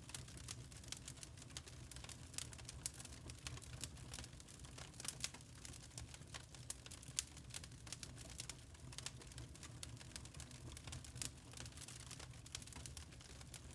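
Burning charcoal crackling: irregular sharp ticks and pops, a few louder than the rest, over a steady low hum.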